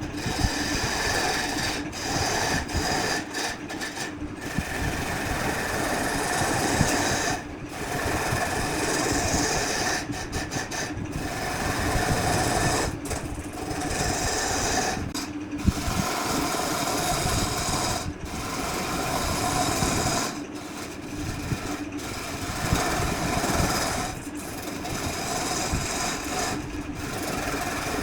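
Electric power tool running while working wood, a steady motor hum with scraping noise, dipping briefly every few seconds as the tool eases off.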